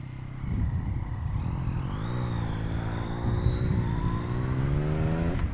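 Yamaha MT-09's three-cylinder engine through an Akrapovic carbon full exhaust, pulling under acceleration with its pitch climbing steadily from about two seconds in. Near the end there is a brief break in the sound, as at a gear change.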